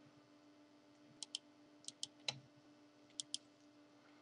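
Faint computer mouse clicks, mostly in quick pairs, four times over a low steady hum.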